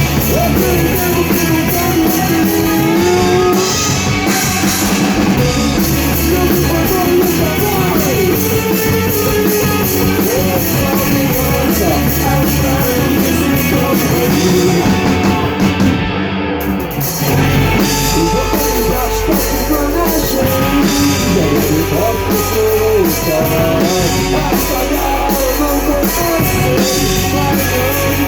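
Rock band playing live in a rehearsal room: electric guitar, bass and drum kit, with a singing voice. About two-thirds of the way through the cymbals and guitar drop out for a moment, then the full band comes back in with a heavier bass.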